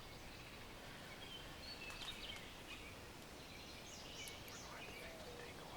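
Faint birds calling: scattered short chirps and quick pitch glides, clustered around two seconds in and again about four seconds in, over a low steady background hiss.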